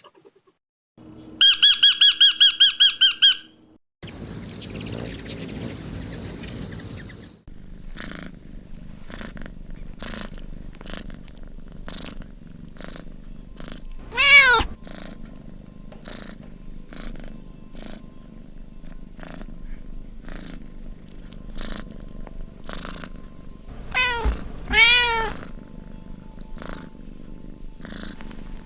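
A brief, fast, high-pitched trill, then a domestic cat purring steadily. The cat meows once about halfway through and twice more in quick succession later on.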